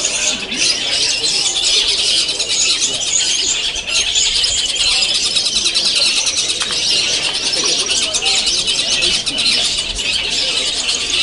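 Many caged long-tailed shrikes singing at once: a dense, unbroken chatter of high, quick calls.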